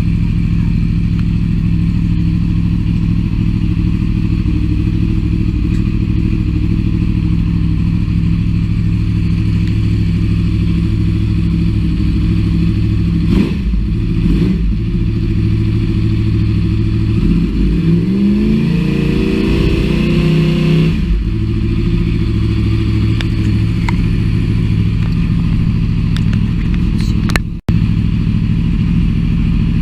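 2010 Yamaha YZF-R1 crossplane inline-four idling through a Yoshimura slip-on silencer, with two quick throttle blips about halfway through and, a few seconds later, a longer rev that climbs and falls back to idle.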